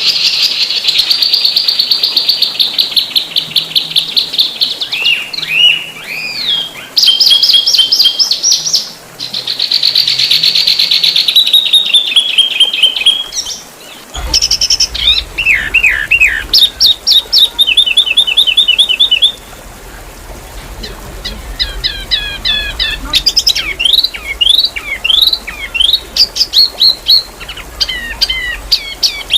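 Songbird singing fast, dense trills and rapid runs of high chirps and whistled sweeps, with brief pauses. About halfway through, the background hiss changes as a different recording of the song begins.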